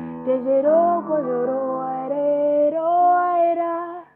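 A woman singing a wordless, wavering melody with vibrato over sustained keyboard chords. The singing and music cut off abruptly near the end.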